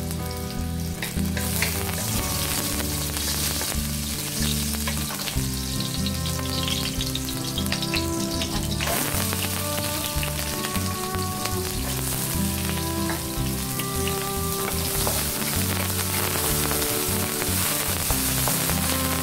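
Minced garlic and chopped onion sizzling in hot cooking oil in a nonstick frying pan, stirred with a wooden spatula.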